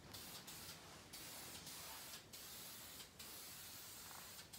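Red primer being sprayed onto metal baler parts: a faint steady hiss of spray, cut by several brief breaks as the nozzle is released and pressed again.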